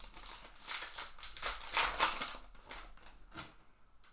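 Trading card packs being opened and handled: a dense run of crinkling and rustling for about two seconds, then a single small click.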